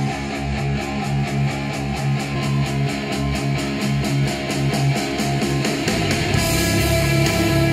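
Guitar-driven rock music played through a studio monitor speaker and picked up by microphone, with a fast steady beat of bright cymbal-like strikes; the arrangement changes about six seconds in.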